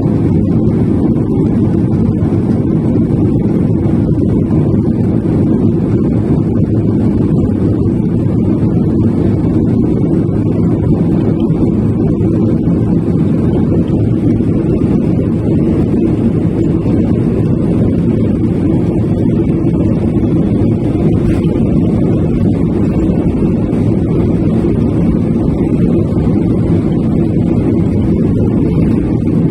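Steady, loud low rumble of an Airbus A319 airliner with its engines running, unchanging throughout.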